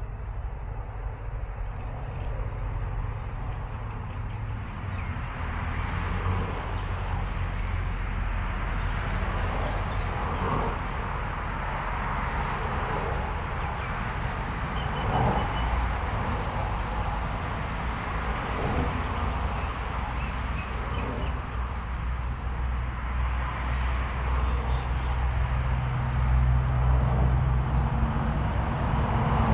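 A small bird chirping over and over, short rising chirps about one a second, over a steady low rumble and background noise that grow louder near the end.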